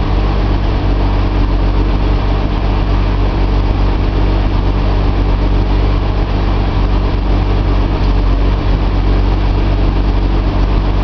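Nissan L28 2.8-litre straight-six with a Maxima cylinder head, running steadily at idle while it warms up.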